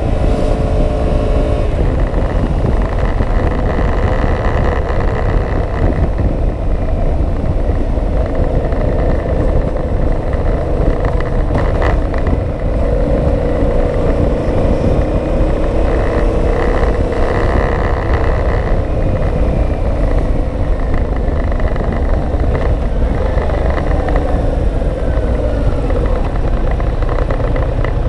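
Yamaha MT-07's parallel-twin engine running under way, its pitch rising and falling with the throttle, over a heavy rumble of wind on the camera microphone.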